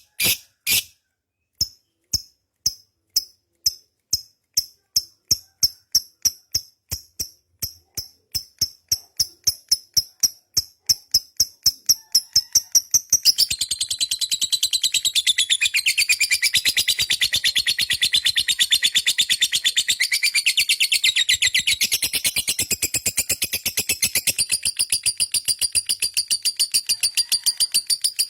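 Lovebird singing its long 'ngekek' chatter: a series of sharp high chirps, about two a second and speeding up, that runs together about halfway through into a fast, continuous rattling trill.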